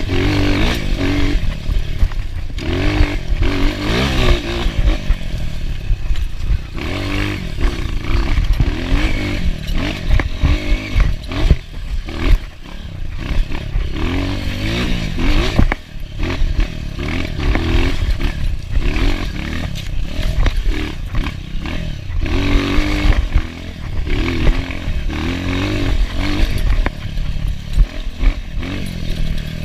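Enduro dirt bike engine revving up and down over and over as it is ridden hard, with rattling and clatter from the bike.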